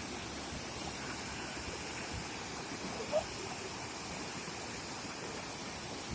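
Waterfall: a steady rush of falling water, with one brief short sound about three seconds in.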